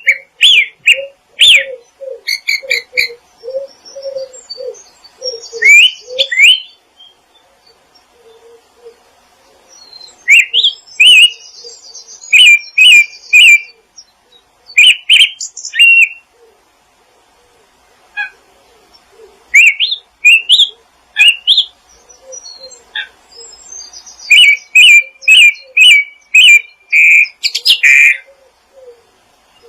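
Wild songbirds chirping in quick clusters of short, sharp calls separated by brief pauses, with another bird's lower repeated notes underneath, most frequent in the first six seconds.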